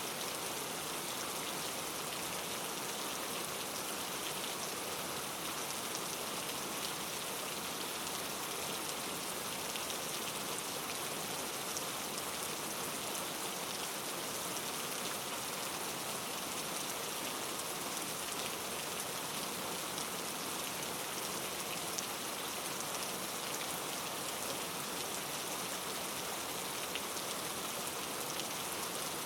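Steady rainfall, the hiss of rain with many small drops ticking on a surface.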